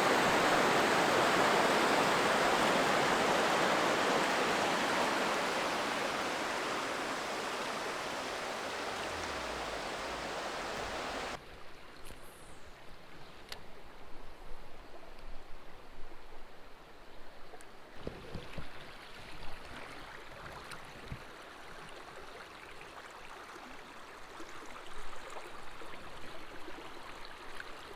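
Loud, steady rushing of creek water over rocks, slowly fading. About a third of the way in it cuts off abruptly to a much quieter flow of water, with scattered small knocks and clicks.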